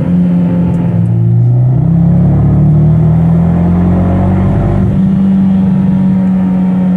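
Fiat 124 Spider's 1.4-litre turbocharged four-cylinder running under throttle with an uneven, wavering note: the engine breaking up from a cylinder 2 misfire.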